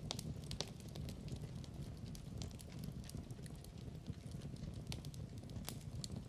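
Wood fire burning in a fireplace: a steady low rumble of flames with frequent sharp, irregular crackles and pops of the burning logs.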